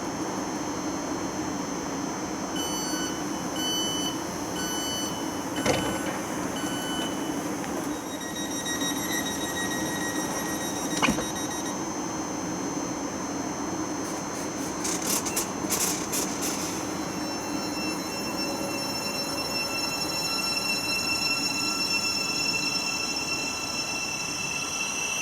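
A train at a station platform with a steady low rumble. A short run of about five evenly spaced beeps plays a few seconds in, two sharp clicks follow, and a cluster of knocks comes around the middle. From about two-thirds of the way through, a whine of several high tones rises gently in pitch as the train gets moving.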